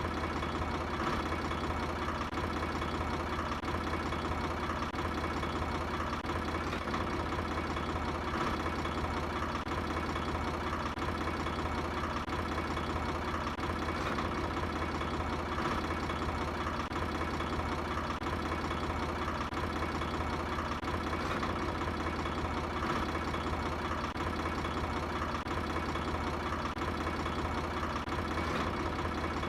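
A motor or engine running steadily at a constant speed, a continuous even hum that does not change.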